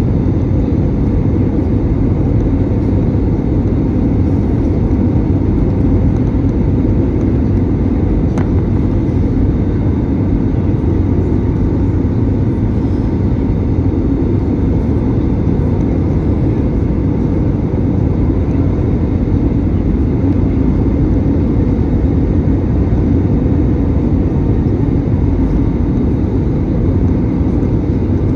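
Steady cabin noise inside an Airbus A319 airliner on its way down to land: the even rush of airflow and engines, heaviest in the low range. There is one faint click about eight seconds in.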